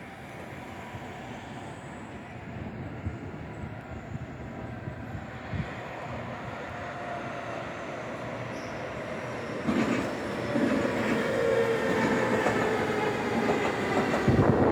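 Electric train approaching, its running noise growing steadily louder, with wheels clicking over rail joints in the last few seconds.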